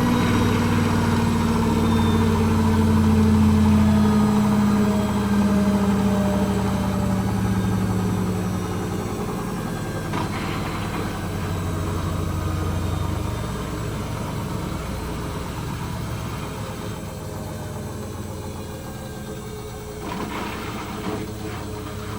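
Hoover H-Wash 300 Plus washing machine winding down from a spin: the motor and drum hum slowly falls in pitch and gradually gets quieter, with a few faint knocks near the end.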